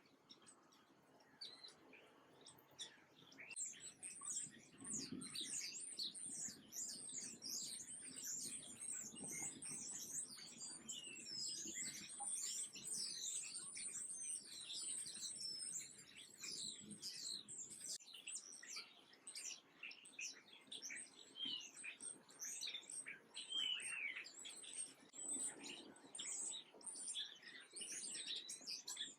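Small birds chirping in a busy, overlapping chatter of short high downward-sweeping chirps, starting about three seconds in.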